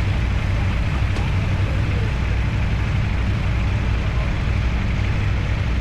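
CFMoto 450SR parallel-twin motorcycle engine running steadily while the bike is ridden, its note holding level with no clear revving up or down.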